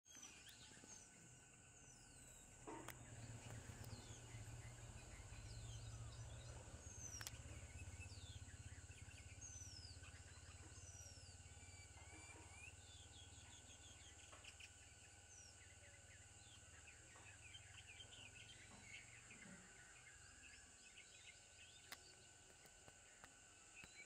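Faint bird calls: short downward-sweeping whistles repeated every second or two, then a spell of quick short chirps in the middle, over a low rumble and a steady high hiss.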